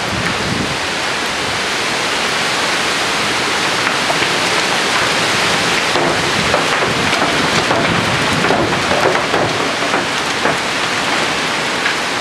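A strong wind gust blowing, a dense rushing hiss much like heavy rain, with scattered small patters. It swells a little through the middle and eases slightly near the end.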